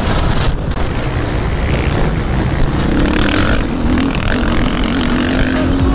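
Motocross bike engine running loud, its pitch wavering up and down as the throttle is worked.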